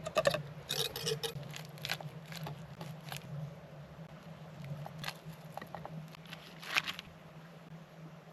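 Knife cutting sausages, with irregular taps and clicks as pieces are cut and dropped into a pan, a cluster in the first second and a louder one near the end. A low steady hum runs underneath.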